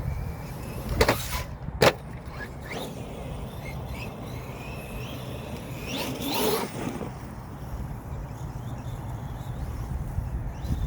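Redcat Volcano EPX Pro RC monster truck's brushless electric motor whining as it speeds up and slows, loudest in a rising whine about six seconds in. Two sharp knocks come about one and two seconds in, over a steady low rumble.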